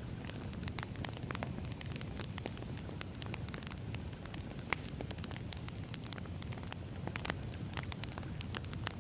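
Wood fire burning: a steady low rumble of flames with irregular sharp crackles and pops of burning firewood, one louder pop near the middle.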